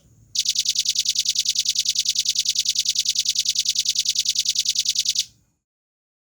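Velvet-fronted nuthatch giving a rapid, even trill of high notes, about ten a second, for about five seconds, then stopping abruptly.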